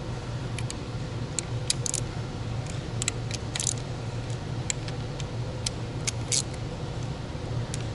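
Hand wrench clinking on the bolts of a VW crankcase vent valve as they are snugged up: scattered light metallic clicks and a couple of short rattles, at irregular times, over a steady low hum.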